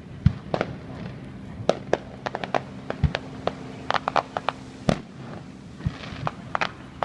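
Aerial fireworks bursting at an uneven pace. A few deep, loud booms, about a third of a second in, around three seconds and near five seconds, stand out among many quicker, sharper pops and cracks.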